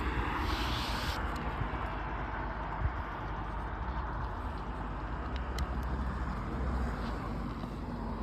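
Steady rumble and wind noise of a moving bike, heard while riding.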